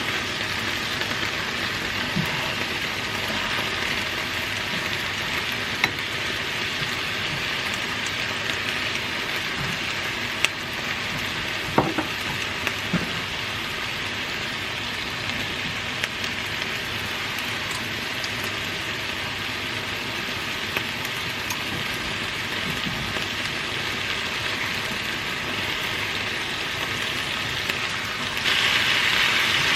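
Chicken and onions sizzling steadily in a frying pan over a low heat, with a few sharp clicks of a utensil against the pan. The sizzle gets louder near the end.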